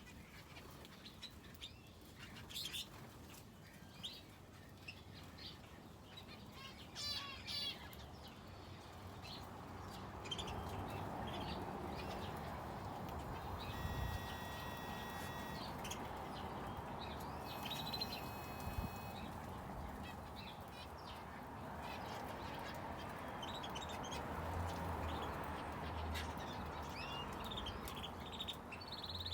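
Small aviary finches and a canary chirping, with short high tweets scattered throughout and a quick trill about seven seconds in. A steady rushing noise comes up underneath from about a third of the way in.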